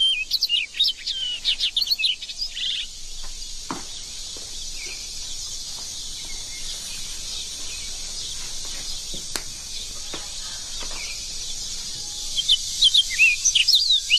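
Birds chirping in quick, rising and falling calls, thick at the start and again near the end, thinning out in the middle, over a steady high hiss.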